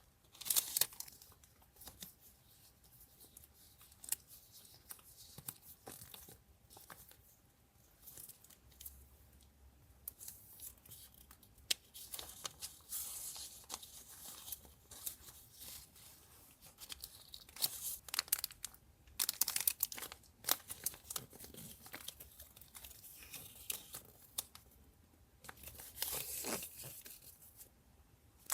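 Paper being torn and crinkled by hand, in irregular bursts of rustling with quieter pauses between them.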